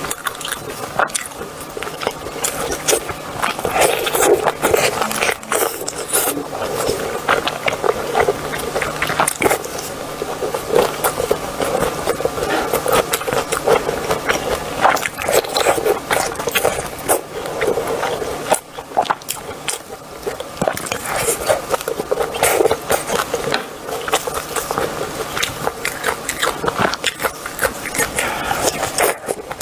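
Eating sounds: chewing and biting with scraping, a dense run of small clicks.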